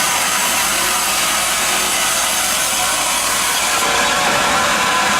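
MEBOR band sawmill running, its blade cutting through wood with a steady, loud sawing noise.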